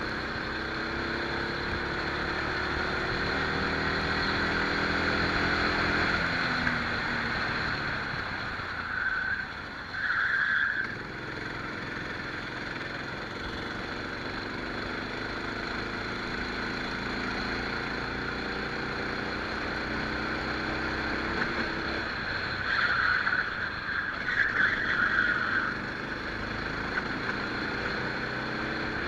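Rental kart engine heard onboard, its note climbing steadily under acceleration, then dropping about six seconds in and again a little past twenty seconds as the kart slows for corners. Short, higher screeching sounds come around ten seconds in and again for a few seconds after the second drop.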